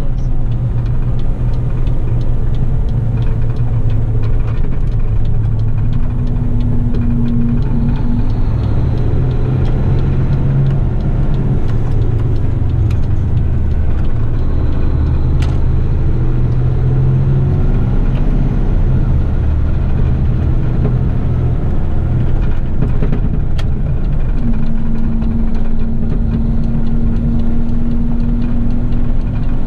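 Garbage truck's engine running steadily while driving, a continuous low drone mixed with road noise. A higher steady hum comes in briefly twice, once about a quarter of the way in and once near the end.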